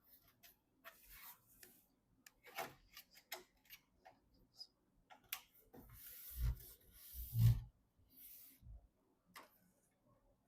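Small clicks and brief rubbing of computer parts and packaging being handled during assembly, with two louder dull thumps about six and a half and seven and a half seconds in.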